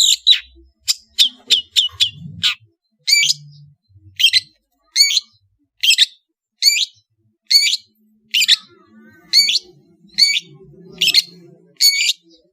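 Long-tailed shrike (cendet) singing: a quick run of chattering notes at first, then a string of short, sharp, evenly repeated calls a little more than one a second.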